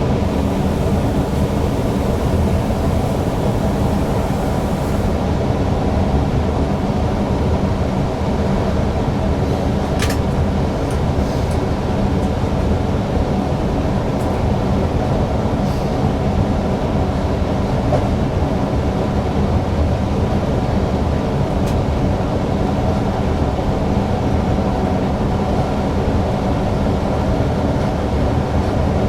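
Newag Impuls EN63 electric multiple unit running along the line, heard from the driver's cab. A steady rumble of wheels and running gear carries several steady tones, with a sharp click about ten seconds in.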